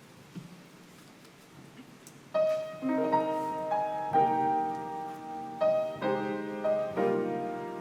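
Piano playing the opening chords of a hymn, coming in suddenly about two seconds in after faint room noise, with notes struck in groups and left to ring and fade.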